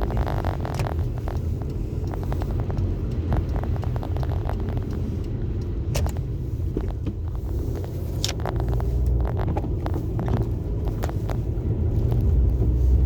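A car driving, its steady low engine and road rumble heard from inside the cabin, with scattered short clicks and knocks.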